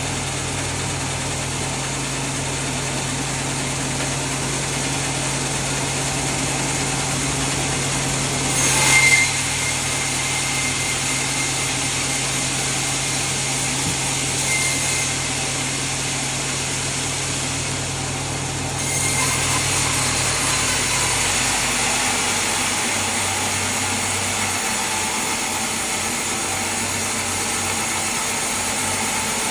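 Sawmill machinery running steadily, with an engine hum that drops away about two-thirds of the way through. A brief louder, sharper burst of cutting noise comes about a third of the way in, and the noise grows louder again from about 19 s on.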